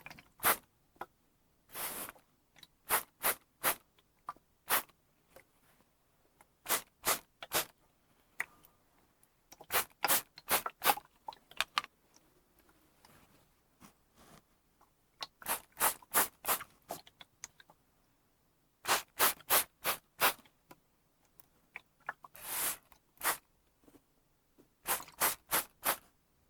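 Trigger spray bottle (mister) squeezed over and over: short sprays in quick runs of up to five, with a couple of longer sprays and pauses between the runs.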